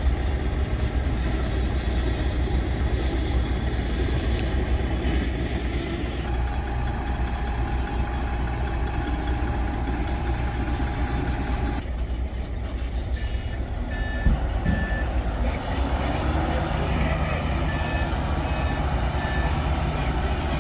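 Heavy diesel machinery running steadily, with a held tone through the middle. In the second half a reversing alarm beeps in short, evenly spaced pulses.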